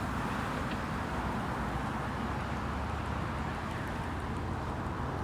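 Steady outdoor background noise with no distinct events, picked up by a camera's built-in microphone.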